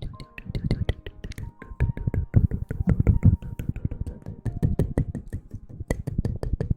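Dense, irregular tapping and scratching close to the microphone, many sharp clicks in quick succession, with faint background music holding sustained notes.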